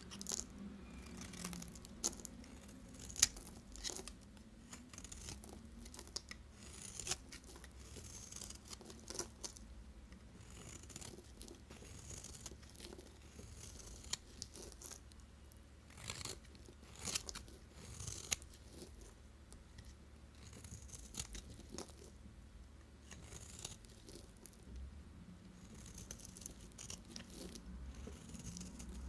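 A knife cutting and shaving bars of soap: irregular sharp cracks and crunches as the blade breaks through, with short scraping hisses of shaving strokes between them, every second or two.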